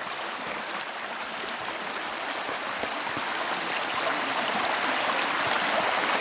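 Creek water rushing over rocks as a steady, even rush that grows gradually louder.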